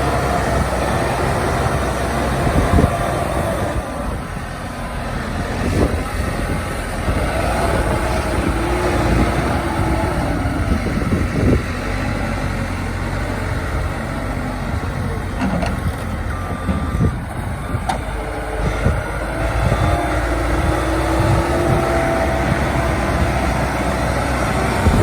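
JCB 215E backhoe loader running, its engine steady with a tone that rises and falls in pitch several times, and a few short knocks.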